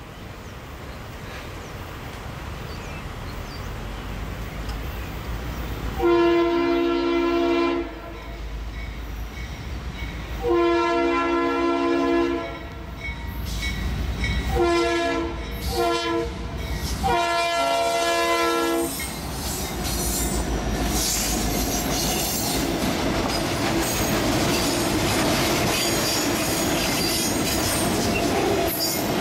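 Freight train approaching a grade crossing, its lead GE C40-8W diesel locomotive sounding a multi-chime air horn in the crossing pattern: long, long, short, long. Under the horn the rumble of the diesel engines grows, and from about two-thirds of the way through the train is passing close by, its wheels clacking and squealing on the rails.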